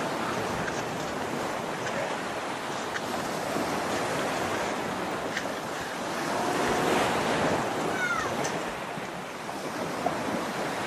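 Steady rush of falling water from a waterfall, swelling and easing slightly in level. A faint short chirp-like glide is heard about eight seconds in.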